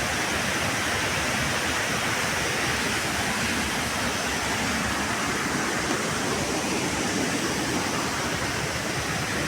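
Steady, even rushing noise with no distinct tones or rhythm.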